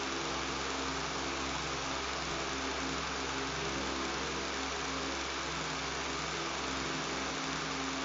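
Electric fan running steadily, a motor buzz with several steady hum tones under an even whoosh of moving air.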